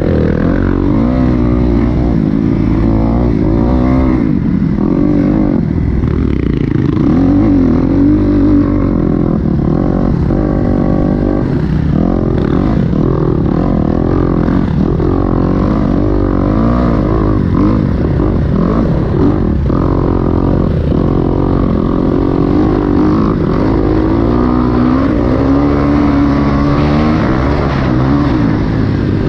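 Kawasaki KX250X four-stroke single-cylinder dirt bike engine being ridden hard, revving up and down again and again as the throttle is opened and closed, its pitch rising and falling every second or two over a steady low rumble.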